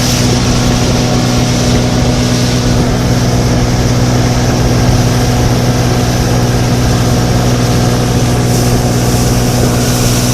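A small boat's motor running at a steady cruising speed, a constant low hum with a steady hiss over it.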